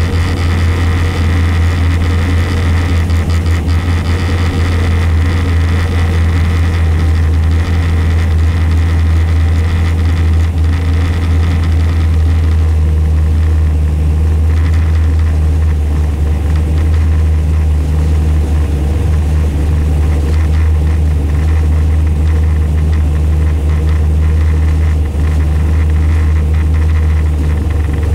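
Historic race car's engine idling steadily, heard from inside the stripped, roll-caged cabin.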